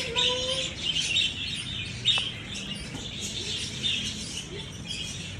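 A flock of small birds chirping and twittering continuously, many short overlapping high-pitched calls.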